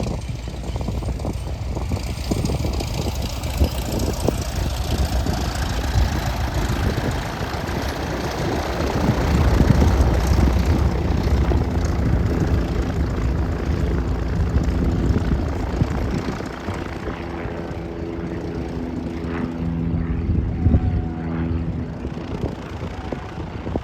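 Light single-engine piston propeller airplane running near the runway, growing louder to a peak about ten seconds in and then settling into a steady engine drone.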